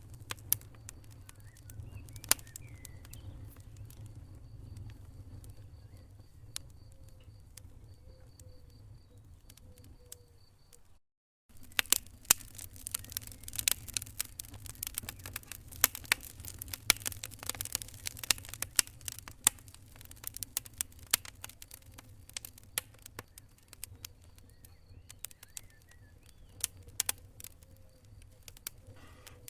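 Wood fire crackling in a fireplace: irregular sharp pops and snaps over a low steady rumble. The sound cuts out for about half a second around eleven seconds in, then the crackling comes thicker for several seconds.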